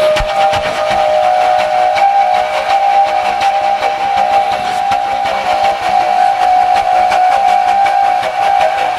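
A steady, held whistle-like tone, a few pitches sounding together, over hiss and fine crackle.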